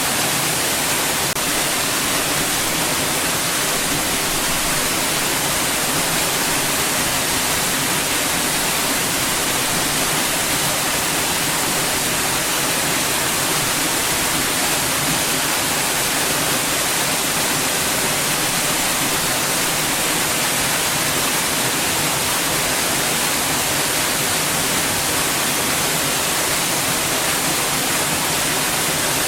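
Steady white noise: an even, unchanging hiss, brightest in the high range, with no breaks.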